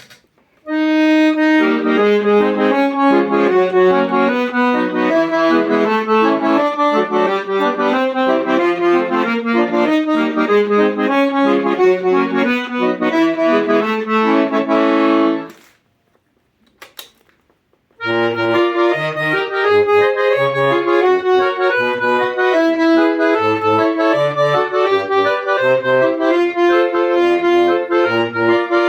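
Hohner Morino IV S accordion played: a treble melody with chords that stops about fifteen seconds in. After a brief pause with a couple of clicks, playing resumes about three seconds later with a rhythmic bass accompaniment under the melody.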